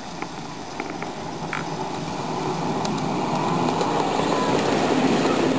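Backyard ride-on railroad train running on its track, a steady rumbling rush that grows louder as it comes closer, with a few light clicks in the first two seconds.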